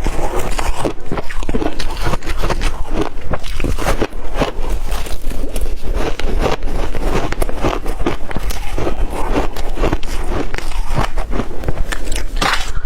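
A person chewing shaved ice: a rapid, continuous run of crunches, with one louder crunch near the end.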